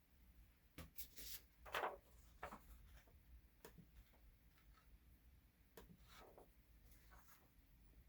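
Faint, scattered strokes of a Sharpie marker drawn across paper, with the loudest stroke about two seconds in.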